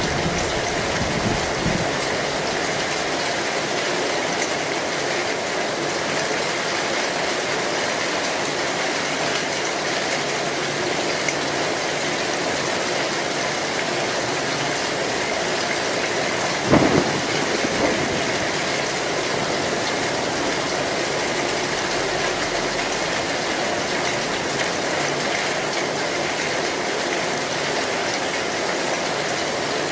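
Heavy rain drumming steadily on a metal roof. About halfway through comes one sudden loud crack, with a smaller one about a second after.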